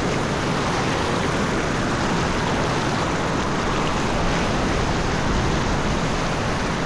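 A mountain stream rushing over rocks, a steady even rush of water.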